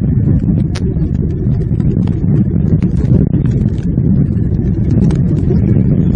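Heavy rain on the nest-cam microphone: a loud, steady low rumble of rain with many small drop ticks scattered through it.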